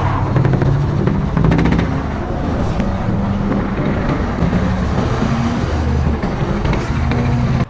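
Heavy truck engine running under load, its pitch rising and falling.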